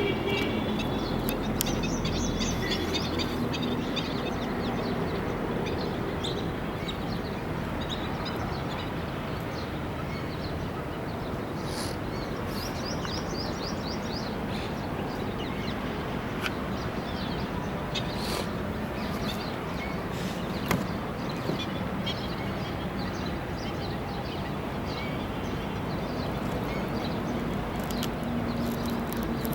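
Wild birds chirping and calling, many short high notes scattered throughout, some in quick runs, over a steady low outdoor background noise.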